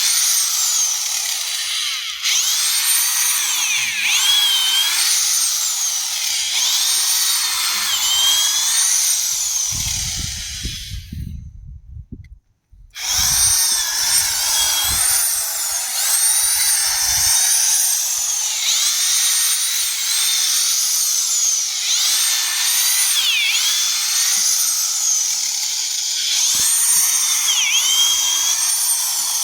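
Corded hammer drill turning an auger down through a compost bin, its motor whining with the pitch dipping and recovering again and again as the auger loads up in the compost. About ten seconds in it winds down and stops, then starts again a second or so later and keeps running.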